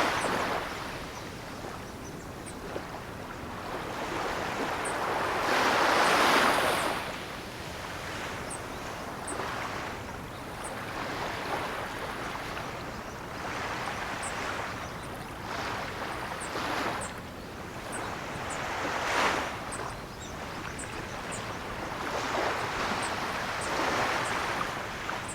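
Ocean surf: waves breaking and washing in one after another in rising and falling swells, the biggest about six seconds in. Faint short high-pitched ticks recur throughout.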